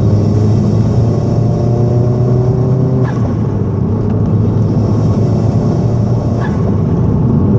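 Vauxhall Astra VXR's turbocharged 2.0-litre four-cylinder engine running with a steady drone. A few short high-pitched chirps come about 3 and 6.5 seconds in. These fit the screech that appeared after the vac box delete and dump valve removal.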